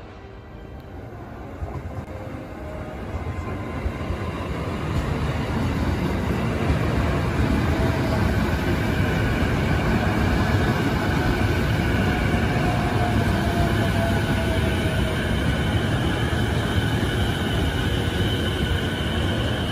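JR E233-series electric commuter train running into the platform: its rumble grows louder over the first several seconds as it approaches, then the wheels and running gear rumble steadily as it rolls past, with a faint whine that falls in pitch partway through as it slows.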